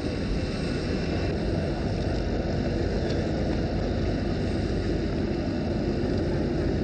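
A vehicle engine running steadily, heard as a continuous even drone with no change in pitch.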